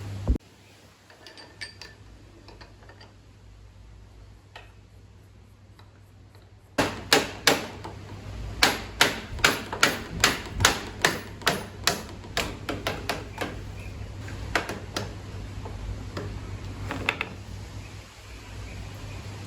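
Hand-tool work: a run of sharp clicks or taps, about two to three a second, starting about seven seconds in after a quieter stretch of faint ticks.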